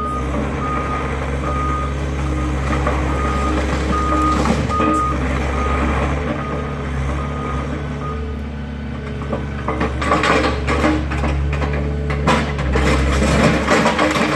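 Heavy equipment's backup alarm beeping about once every three-quarters of a second for roughly eight seconds, over a steady diesel engine drone. From about ten seconds in comes crackling and crunching of wood as the garage structure is broken apart.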